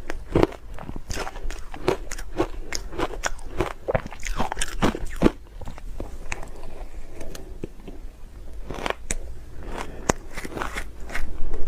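Ice being bitten and chewed close to the microphone: a quick run of sharp crunches and crackles, dense for the first half and sparser after.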